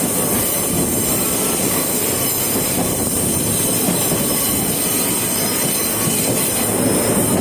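Sagano Romantic Train carriage running on the rails, heard from on board: a steady, loud rumble of wheels on track with wheel squeal mixed in.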